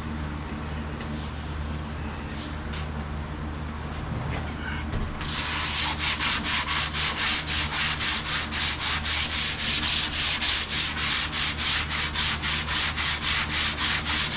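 Hand sanding painted sheet-metal bodywork: light, scattered strokes at first, then from about five seconds in brisk, even back-and-forth strokes at about four a second.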